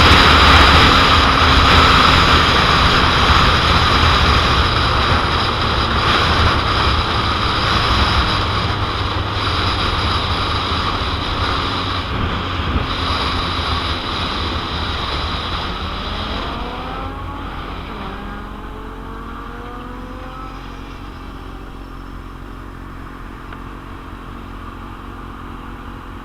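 Heavy wind noise on the microphone of a 2001 Suzuki GSX-R750 riding at speed, dying away steadily as the bike slows. In the later part the motorcycle's inline-four engine comes through, its pitch rising briefly as it accelerates.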